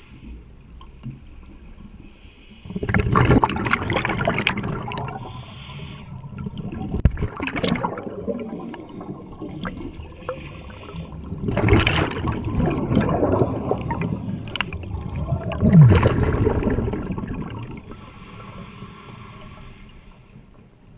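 Scuba diver's exhaled breath bubbling out of the regulator underwater, a gurgling rush of bubbles about every four seconds in time with the breathing.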